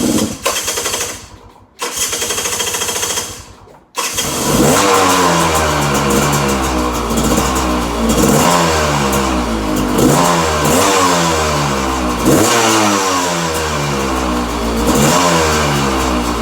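2018 Gas Gas XC300 two-stroke enduro engine being started cold. It fires briefly twice and dies, then catches about four seconds in and keeps running while the throttle is blipped over and over, the revs rising and falling.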